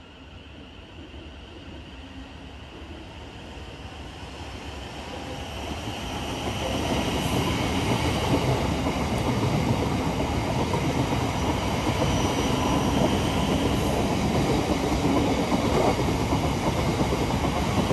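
A train approaching on the rails, growing steadily louder over the first seven seconds or so, then loud and steady as it comes through close by.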